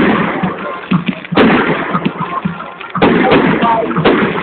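Fireworks display: two loud bangs about a second and a half apart, each sudden and trailing off in a long noisy tail.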